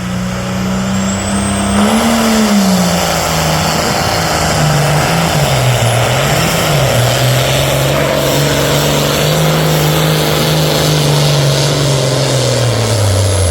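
Pro stock pulling tractor's turbocharged diesel engine at full throttle under heavy load, its note wavering as the sled bogs it. Near the end the revs fall away as the throttle comes off.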